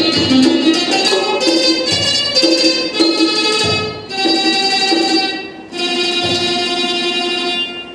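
Jakhe, the Thai three-stringed plucked zither, playing the closing phrase of a melody: quick runs of plucked notes, then two long held notes, the music stopping abruptly near the end.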